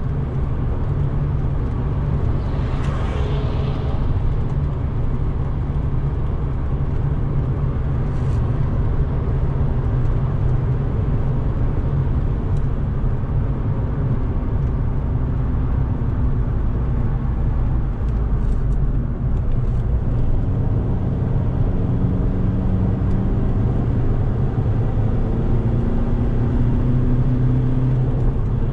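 Mk5 Golf's 2.0 TDI PD four-cylinder diesel running at speed, with a steady low drone and road noise. From about two-thirds of the way through, the engine note climbs in pitch as the car accelerates.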